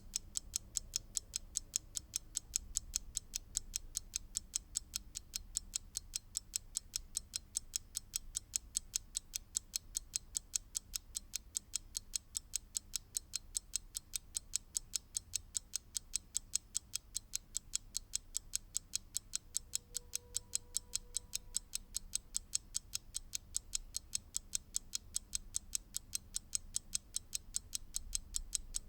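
Mechanical clock ticking: a quick, perfectly even train of sharp clicks, several a second.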